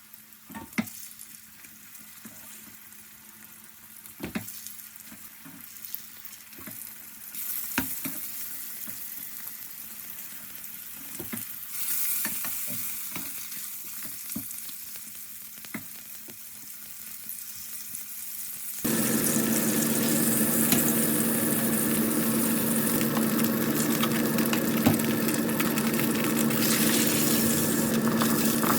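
Food frying in a pan, with scattered clicks of a utensil stirring. About 19 seconds in, the sizzle jumps abruptly louder and becomes a steady hiss with a low hum under it.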